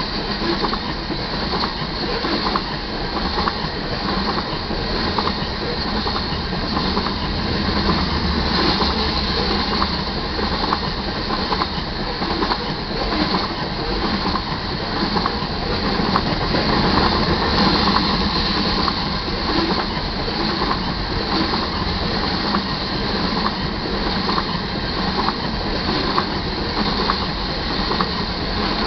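Freight train of covered hopper cars rolling past at steady speed: a continuous rumble of steel wheels on rail, with faint regular clicks as the wheels cross rail joints.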